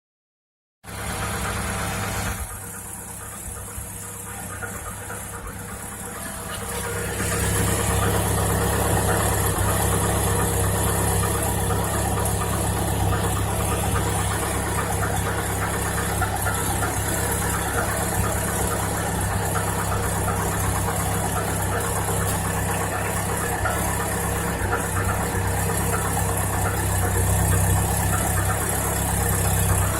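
Chevrolet Niva's 1.7-litre four-cylinder petrol engine idling from cold, with a knock in its running that shows on a cold engine. The sound gets louder about seven seconds in and stays steady after that.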